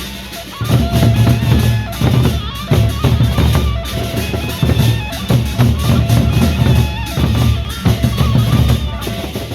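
Loud drum-led music of a Sasak wedding-procession band: heavy low drum beats going continuously, with a repeating pitched melodic line above them.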